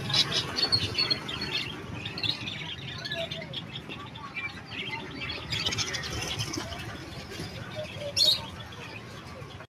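Many caged birds chirping and squawking together, a dense run of short high calls, with one louder sharp call near the end.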